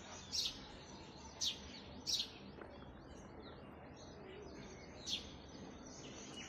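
A bird chirping: four short, high chirps, three in the first couple of seconds and one more about five seconds in, over faint steady background noise.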